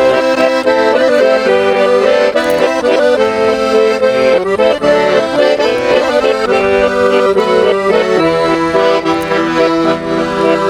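Garmon, the Russian button accordion, playing an instrumental interlude between verses of a slow folk song: a melody over held chords.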